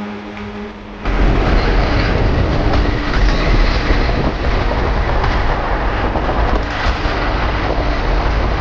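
Losi 1/4-scale Promoto RC motorcycle riding: a steady electric-motor whine for about a second, then an abrupt cut to a loud, continuous rattling rumble.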